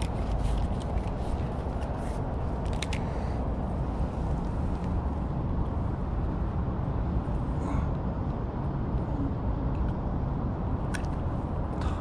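Steady low rumbling outdoor noise, with a few sharp clicks near the start and again near the end.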